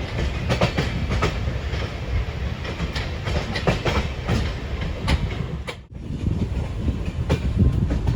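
Express passenger train running: a steady low rumble with wheels clacking over rail joints, several clacks a second. The sound dips out briefly about six seconds in.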